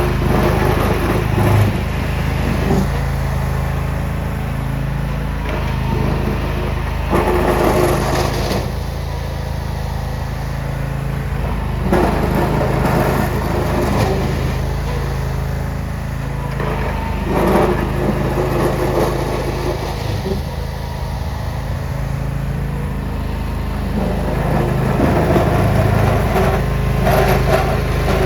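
Lawn tractor's small engine running steadily while plowing snow, with louder, noisier stretches every several seconds.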